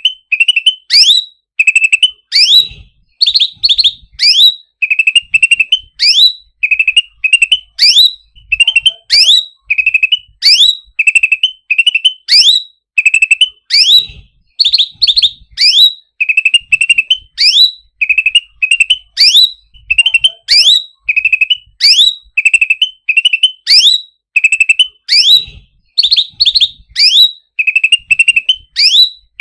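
Songbird calling loudly and over and over: each phrase is a quick run of high chirps ending in a sharp rising whistle, repeated about twice a second with machine-like regularity.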